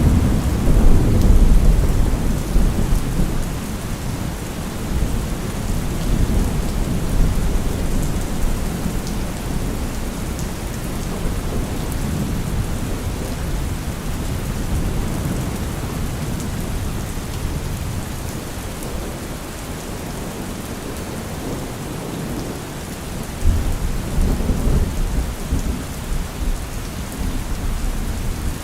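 Heavy rain falling steadily, a dense even hiss, with deep low rumbling swells near the start and again late on.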